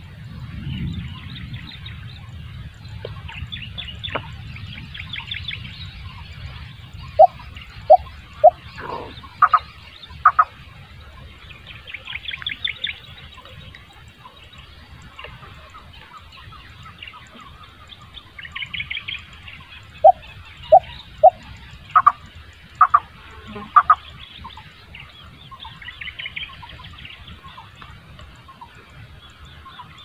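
Birds calling: a loud phrase of three short clear notes followed by two or three higher notes, given twice about thirteen seconds apart, over lighter high chirping from smaller birds.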